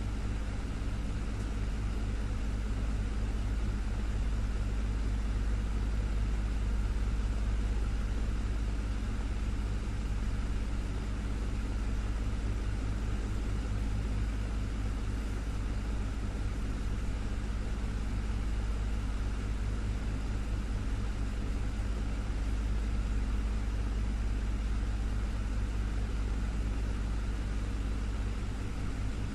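Desktop fan running steadily: a constant motor hum under an even rush of air.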